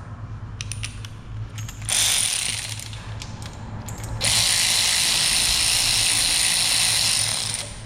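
Ratchet with a 10mm socket backing out bolts on a Ford 5.0 Coyote engine. A few clicks come first, then a short run, then a longer steady run of about three and a half seconds. The bolts are coming out less tight than they should have been.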